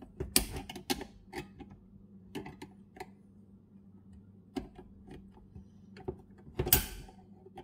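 Irregular metallic clicks and knocks of the lift lever and its shaft being handled and worked in place, with a louder, longer clatter near the end.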